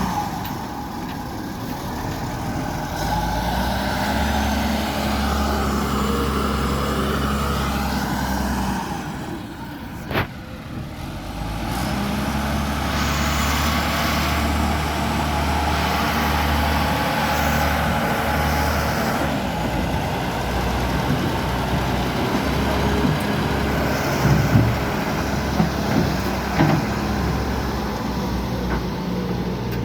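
Kawasaki 80 wheel loader's diesel engine running under varying load while the machine is test-run after repair. The engine sound drops about a third of the way in, with a sharp click, then picks up again. A few knocks come near the end.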